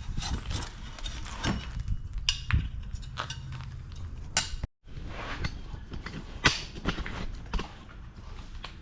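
Scattered metallic clinks and knocks of hand tools and exhaust hardware being handled.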